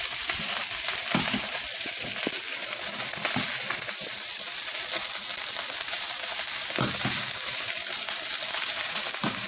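Fried rice sizzling in a hot oiled wok as it is stirred and tossed, with a few short knocks and scrapes of the stirring utensil against the wok.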